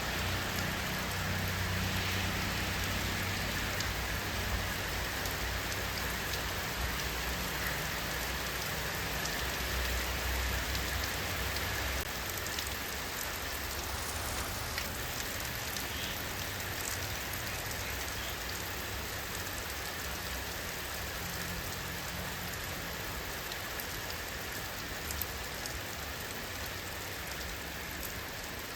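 Steady rain falling on a surface, an even hiss with faint scattered drop ticks. A low rumble underneath drops away about twelve seconds in.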